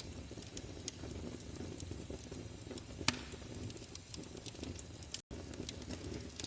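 Wood fire crackling in a fireplace: a steady low flutter of flames with scattered sharp pops, one louder pop about three seconds in. The sound cuts out for a split second near the end.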